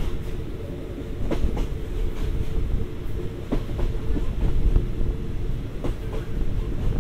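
State Railway of Thailand passenger train under way, heard from on board: a steady low rumble and hum of the running train, broken by irregular sharp clicks of the wheels over the rail joints.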